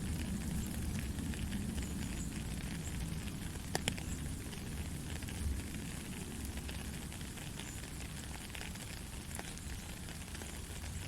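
Soft, steady rain: an even hiss with many small drop ticks, and a couple of sharper drips about four seconds in.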